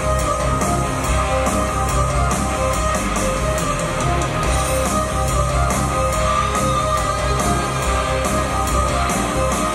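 Instrumental introduction of a rock song: guitar over bass and drums with a steady beat.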